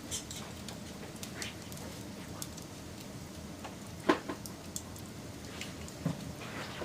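Wood fire burning with a steady low rumble and scattered crackles, one loud pop about four seconds in and another near six seconds.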